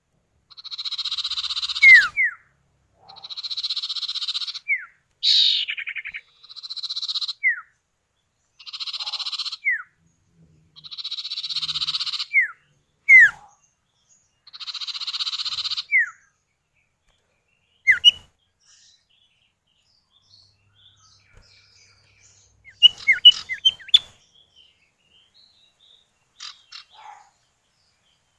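Common iora (cipoh or sirtu) pair trading calls: repeated harsh, buzzy calls about a second and a half long, each answered by a short downward-sweeping whistle. After about 16 seconds only a few short chirps remain.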